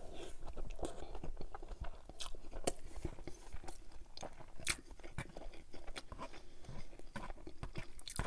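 Close-miked chewing of a mouthful of cabbage roll (rice and beef in cabbage, with sour cream and tomato sauce): many short, irregular mouth clicks and smacks.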